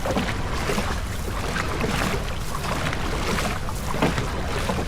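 Steady wind noise buffeting the microphone over the sounds of a rowing boat on the water, with irregular short knocks or splashes.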